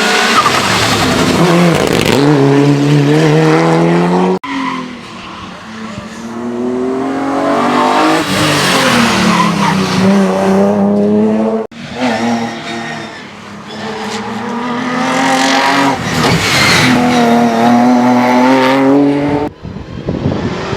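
Competition cars on a hill-climb run accelerating hard, their engines repeatedly rising in pitch and dropping at gear changes, with tyre squeal. Several short clips follow one another, each breaking off abruptly.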